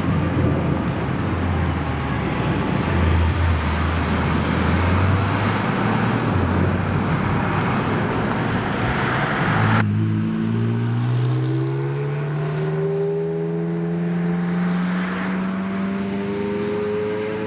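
Supercar engines and exhausts: a loud, rough exhaust rumble for about ten seconds, then an abrupt cut to a single engine whose note climbs slowly and steadily as the car accelerates.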